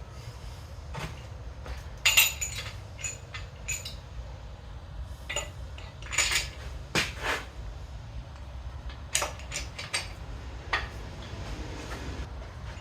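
Metal engine parts, the main bearing caps of an LQ4 engine block, clinking and knocking as they are handled and set in place: a scattered run of light clinks, loudest about two seconds in and again around six to seven seconds in.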